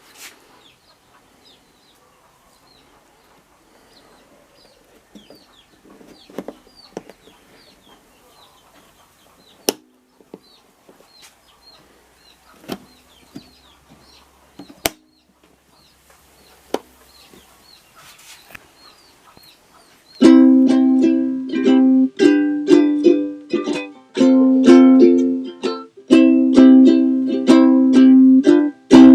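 Faint bird chirps, short falling calls about twice a second, with a few small clicks. About two-thirds of the way through, a freshly restrung Kamaka soprano ukulele is strummed loudly in chords, in phrases broken by short pauses.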